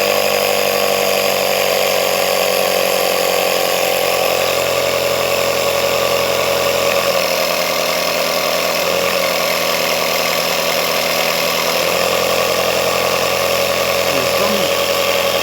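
Small battery-powered air compressor running steadily after being switched on, its motor and piston pump working again after repair; its pitch settles a little lower over the first few seconds. It is running on a flat battery.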